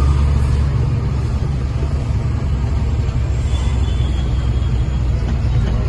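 Heavy goods truck running at road speed, heard from inside the cab: a steady, deep engine and road noise.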